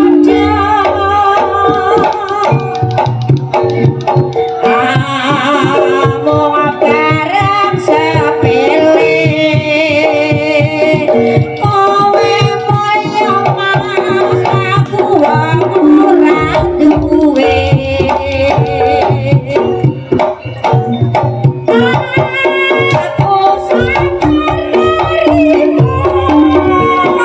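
Live jaranan accompaniment music: hand-played kendang drums driving a steady rhythm under pitched gamelan notes, with a wavering melodic line on top.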